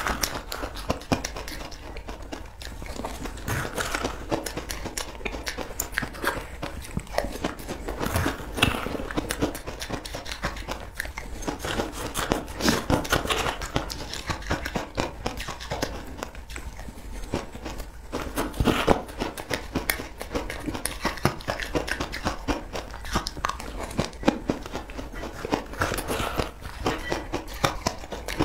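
Close-up crunching and chewing of a crumbly food eaten by the spoonful, a dense run of crackly bites with a few louder crunches.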